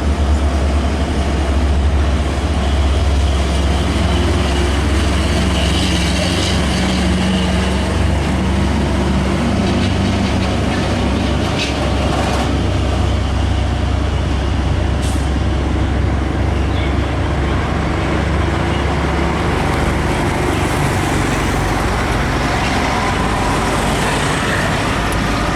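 Heavy truck engines running amid road traffic noise: a steady deep rumble that eases a little about twenty seconds in, with a few short sharp sounds around the middle.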